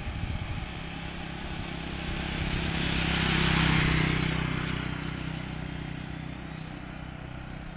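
Radio-controlled model biplane flying past, its motor and propeller drone swelling to a peak about four seconds in, then fading as it moves away.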